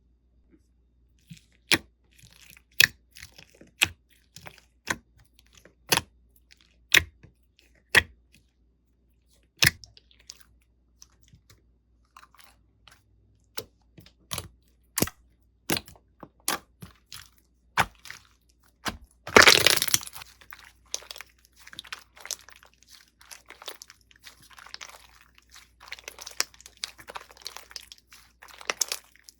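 Slime being pressed and squeezed by hand, giving sharp crackling pops about once a second. About two-thirds of the way through comes one loud crunch, followed by dense, steady crackling.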